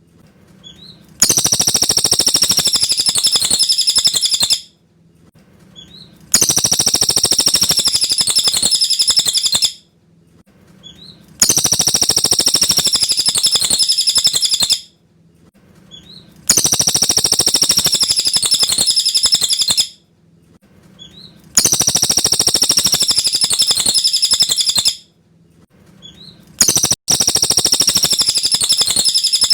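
Cililin bird song: the same roughly three-second twittering phrase, repeated six times about every five seconds with short gaps between.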